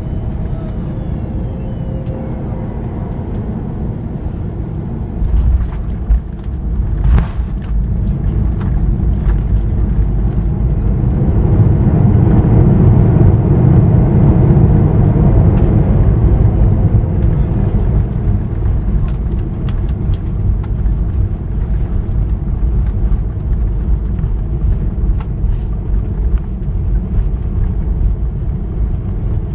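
Airbus A321neo on landing, heard from the cabin: a jolt and knocks about five to seven seconds in as the wheels touch down. Then the Pratt & Whitney PW1100G geared turbofans' reverse thrust swells to a loud rumble around twelve to sixteen seconds in and eases off as the aircraft slows on the runway.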